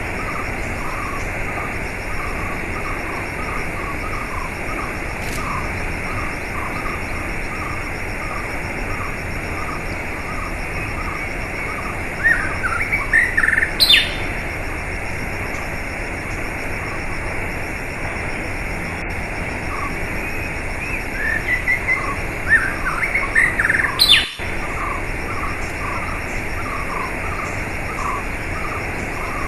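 Steady rushing water, with a small chirp repeating two or three times a second. Bird calls break in twice, about twelve seconds in and again around twenty-two seconds in, each ending in a sharp high note.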